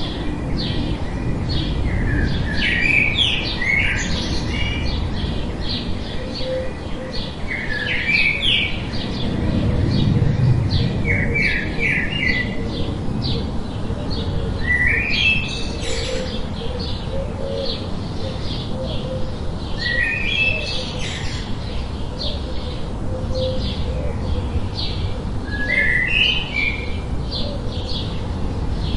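Forest birds singing and calling, short chirping phrases every few seconds among many quick high chirps, over a steady low background noise.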